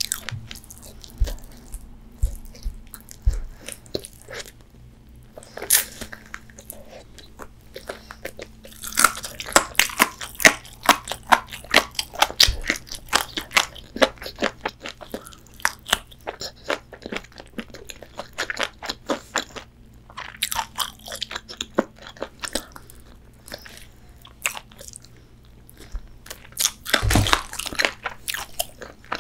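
A person biting and chewing crispy fried chicken, with crisp crunches and crackles between quieter chewing. The crunching comes in clusters, densest about a third of the way in and again near the end.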